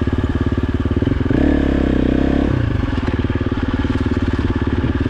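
Dirt bike engine running at low revs with plain, even firing pulses; about a second in it picks up for roughly a second, then settles back.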